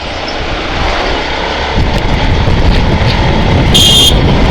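Wind rush and road noise from a Yamaha FZ-X motorcycle riding through traffic, picked up by a bike-mounted action camera and growing louder about two seconds in. A short, high horn beep sounds near the end.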